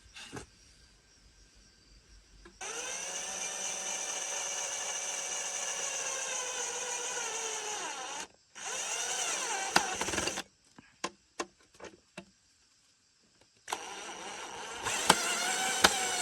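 Electric drill running in three bursts, the first about five seconds long, its whine dropping in pitch near the end as the motor slows. A few light knocks fall between the bursts.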